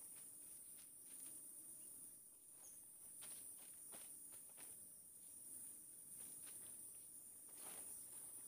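Slow, irregular footsteps, several soft steps with the firmest one near the end, under a steady high-pitched chorus of crickets.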